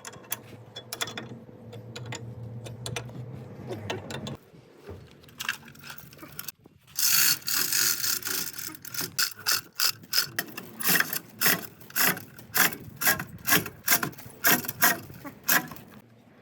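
Hand ratchet being worked, a burst of fast clicking followed by a run of evenly spaced clicking strokes about two a second. A low steady hum with scattered clicks comes first.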